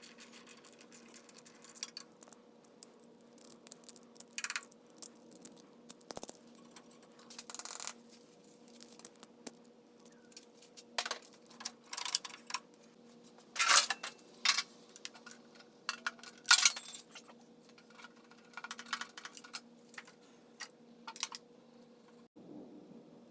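Metal tools and loose engine parts clinking and clattering as they are handled during engine disassembly: scattered sharp clinks, with a few louder clatters in the second half, over a faint steady hum.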